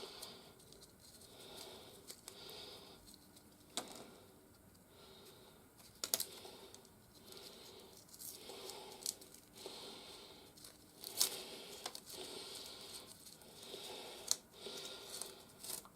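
Faint rustling and crinkling of plastic packaging and toy parts being handled, with a few sharp clicks of hard plastic pieces.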